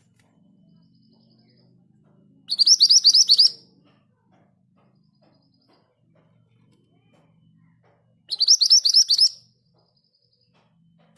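Scarlet minivet singing: two fast rolling trills of rapid, high, repeated notes, about ten a second, each lasting about a second, some six seconds apart.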